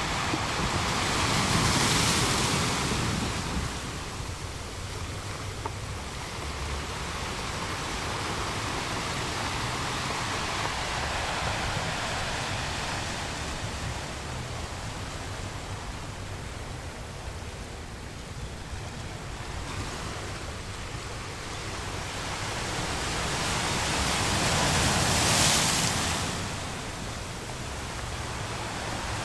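Small waves breaking and washing up the shore, with a steady hiss of surf in between. The wash swells loudest about two seconds in and again near the end, as waves break.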